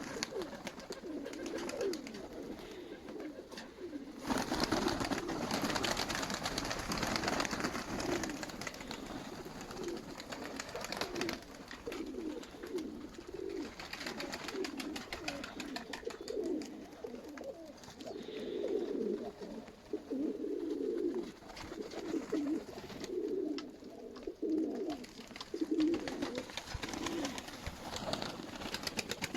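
Nikolaev domestic pigeons cooing, repeated low warbling coos one after another, with a few seconds of rustling noise about four seconds in.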